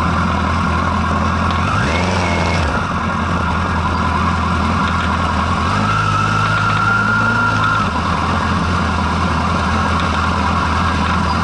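Superbike engine running steadily at low revs, with a short rev that rises and falls about two seconds in.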